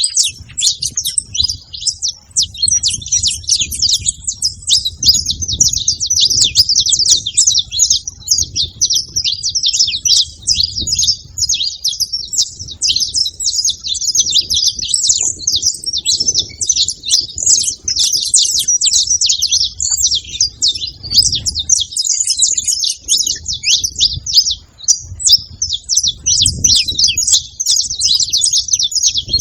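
Saffron finches chirping and singing together, a dense, unbroken run of quick high chirps and trills.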